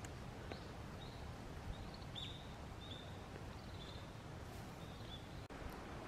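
A small bird calling in the woods: a faint run of short, high, thin notes, about seven or eight over some four and a half seconds, over a steady low background rumble.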